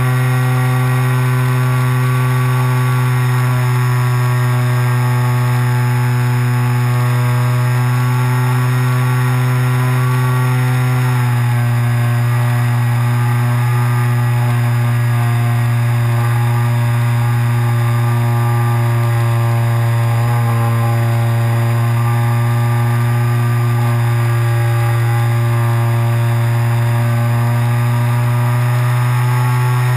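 Radio-controlled glider's motor and propeller running steadily at a constant pitch, dropping slightly in pitch about eleven seconds in.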